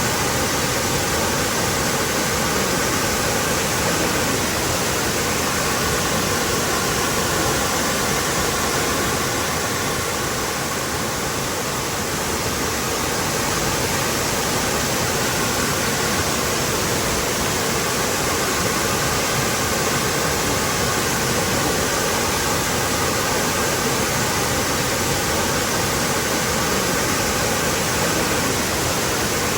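Waterfall pouring steadily, a dense, even rush of falling water that holds at one level throughout.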